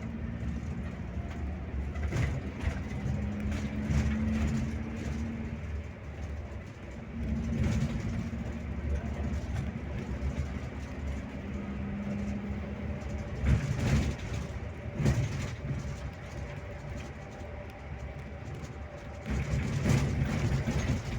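Scania K360IB coach on the move: steady engine and road noise, with the engine note fading in and out, and a few short knocks and rattles from about 13 to 15 seconds in.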